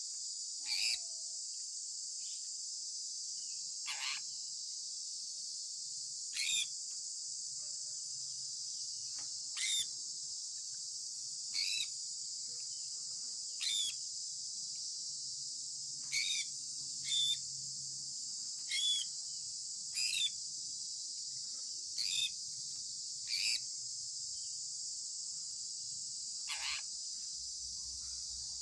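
Sun conure parrot giving short chirps that drop in pitch, about one every two seconds, over a steady high insect-like drone.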